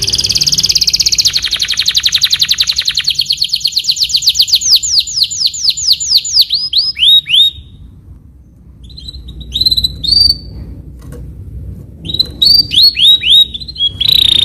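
Canary singing: a very fast, high trill that gradually slows into separate downward-sweeping notes, then breaks off and resumes about halfway through with short bursts of rapid chirps.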